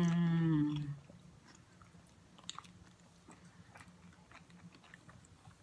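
A drawn-out hum from the eater in the first second, then quiet chewing of bionico, crunchy granola with soft fruit and cream, with small crunches and clicks of the mouth, one a little louder about two and a half seconds in.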